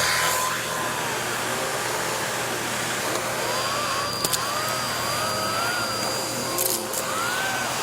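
Vacuum cleaner running steadily, with a high motor whine and a few sharp clicks in the second half.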